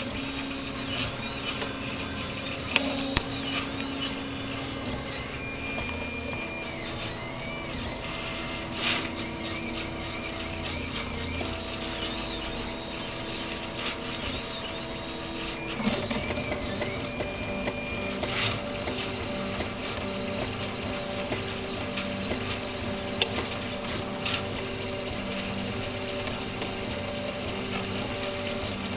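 RepRap 3D printer running a print: its stepper motors whine in steady tones that jump to new pitches every second or two as the head and bed move, with a few sharp clicks.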